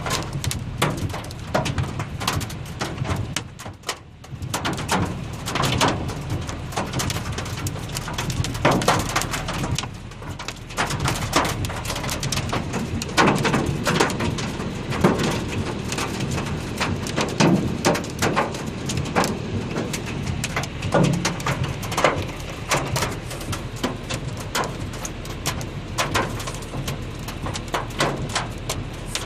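Hailstones striking hard surfaces: a dense, irregular clatter of sharp impacts over a steady low rush, easing briefly about four seconds in.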